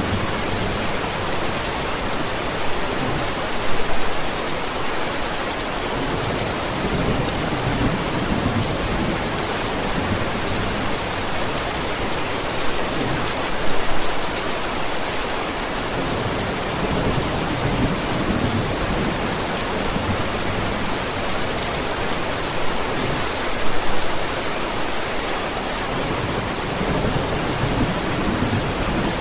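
Steady heavy rain hissing, with low thunder rumbling in and out beneath it. Brief swells in loudness come about every ten seconds.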